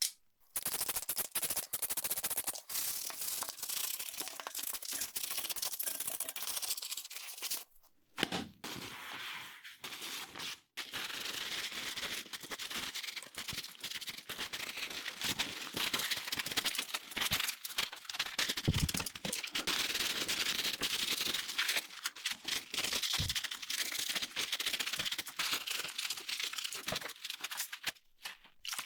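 Dense, irregular crackling and clicking, with a few short breaks and a few low thumps.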